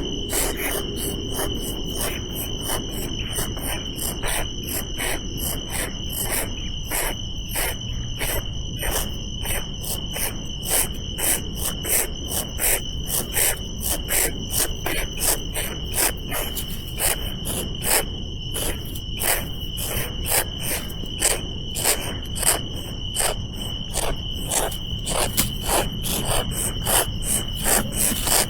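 A steady, high insect drone with a fast, irregular series of sharp clicks or rustles over it.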